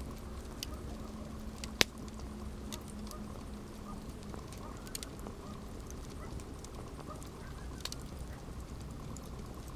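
Campfire burning, with a steady low rush of flames and scattered wood crackles, and one sharp, loud pop about two seconds in.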